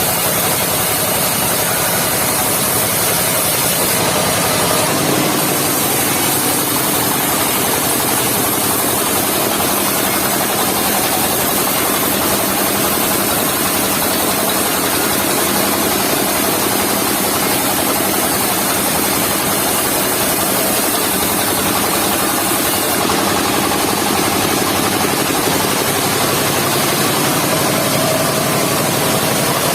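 Mobile sawmill running steadily: its engine drives the saw through the log-sawing job, with a slight change in its sound about five seconds in and again near twenty-three seconds.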